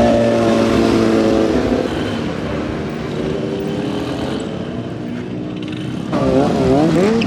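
Stunt motorcycle engine held at high revs, fading away after a second or two, then revved up and down in repeated blips about six seconds in.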